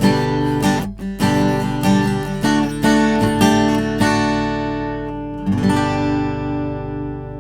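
Cat's Eyes CE-25 steel-string acoustic guitar (spruce top, mahogany back and sides) played with picked notes and strummed chords. A final chord is struck a little after five seconds in and left ringing, fading away.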